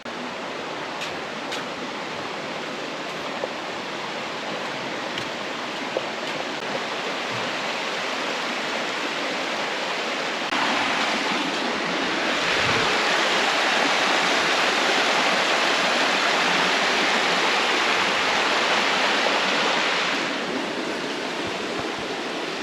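Steady rush of flowing stream water, growing louder about ten seconds in and easing off again near the end.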